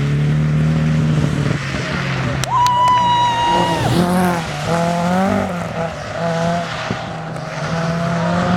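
Rally car on a tarmac stage, its engine note fading. About two and a half seconds in the tyres give a steady squeal for about a second, followed by wavering squeals with engine.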